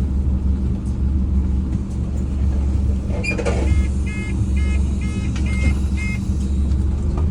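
Scania N230UD Omnicity bus engine running with a steady low rumble inside the cabin. About three seconds in there is a knock, followed by a run of about six short electronic beeps.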